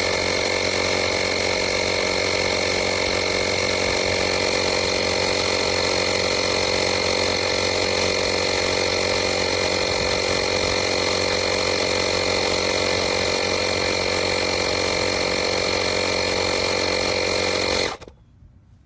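FADAKWALT 12V portable tire inflator's compressor running steadily at a constant pitch, then cutting off suddenly near the end.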